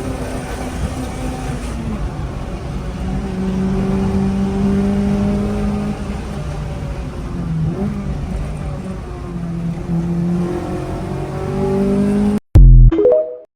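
Honda Integra four-cylinder VTEC engine running hard at high revs, its pitch holding and wavering with a few dips as the throttle changes. Near the end the sound cuts out briefly, then comes back as a very loud, distorted burst that falls in pitch and fades.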